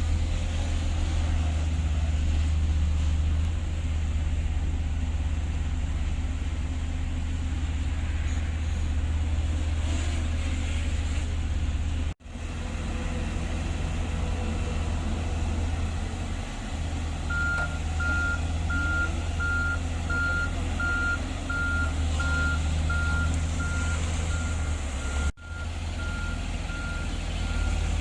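Heavy diesel earthmoving machinery running with a steady deep rumble, cutting out abruptly for an instant twice. From a little past the middle, a reversing alarm beeps steadily, a bit more than once a second.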